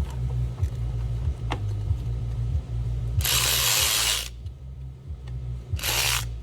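A ratchet working fasteners on the engine, with scattered clicks. There are two loud bursts of hissing rattle: one lasting about a second in the middle, and a shorter one near the end.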